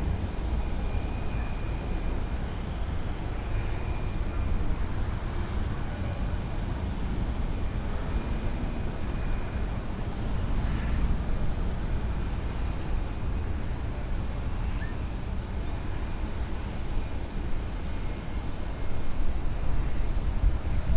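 Jet airliner engines on approach, a steady low rumble with a faint intermittent whine, getting louder near the end, with wind noise on the microphone.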